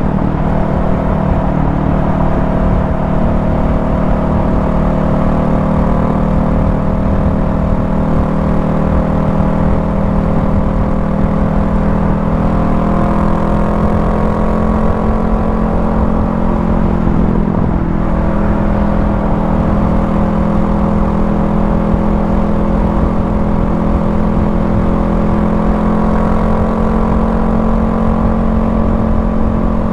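Honda Rebel 500's parallel-twin engine running steadily at highway cruising speed, over a constant rush of wind and road noise. The engine note drifts slightly up through the middle, with a brief break past the halfway point.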